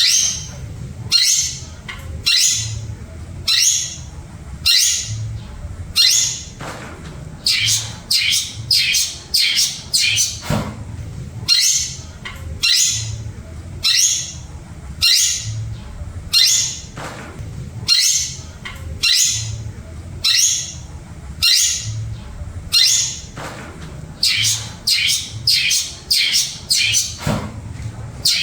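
Long-tailed shrike (pentet) giving harsh, scratchy calls about once a second, sometimes in quick runs of two or three, over a low steady hum.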